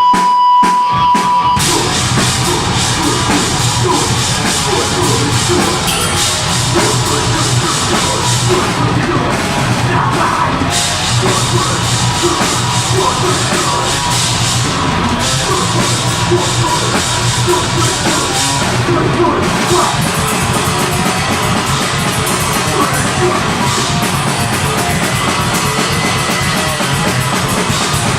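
Deathgrind band playing live at full volume: a drum kit and distorted guitars. A steady high tone rings for the first second and a half as the song starts.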